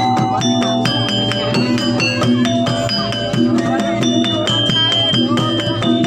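Jaranan gamelan music played live: struck metal keyed instruments ring out a dense, steady run of notes over a low rhythmic accompaniment.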